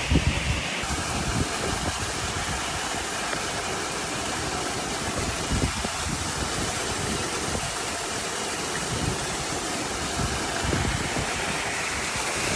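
Steady rush of a waterfall pouring into a pool, with scattered low thumps of wind on the microphone.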